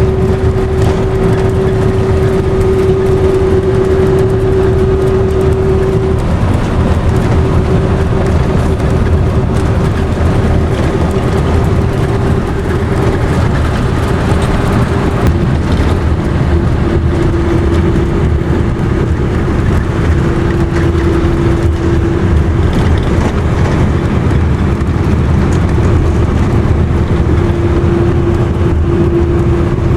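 Car driving on a highway: steady road and tyre noise with a low rumble and a steady engine hum that drops slightly in pitch about halfway through.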